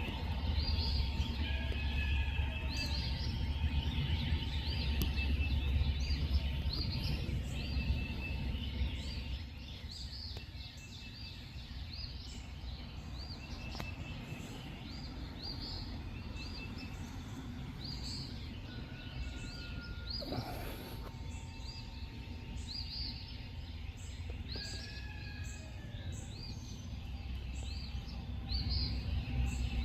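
Night-time outdoor ambience: many short, high, rising chirps repeating irregularly, with an occasional whistled note, over a low rumble that eases after about the first third.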